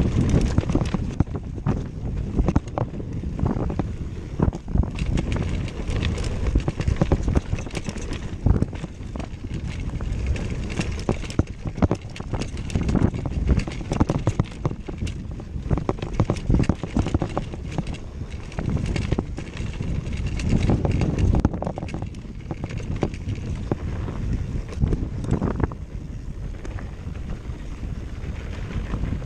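Wind buffeting the microphone in uneven gusts, with many irregular clicks and crunches over it.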